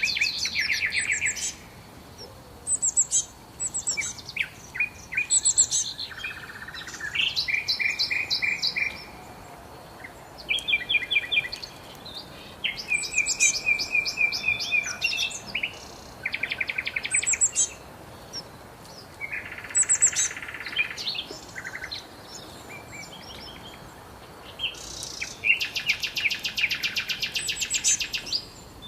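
Songbirds singing: a run of high-pitched phrases of fast repeated notes and trills, each a second or two long, one after another with short pauses and sometimes overlapping.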